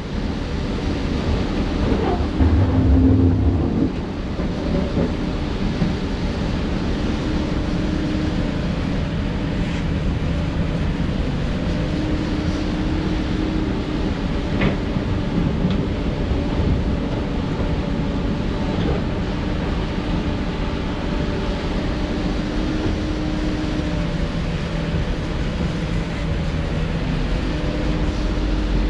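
Heavy diesel earthmoving machinery running steadily: a low engine drone with a held hum, louder and rumbling for a couple of seconds near the start, with a few sharp knocks.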